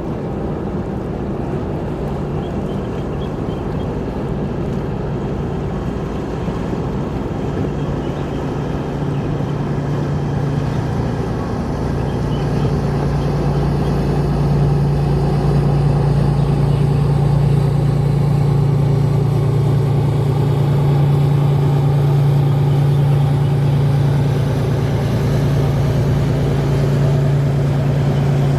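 Low, steady engine drone of a passing vessel on the harbour channel, a deep hum that grows louder from about halfway through.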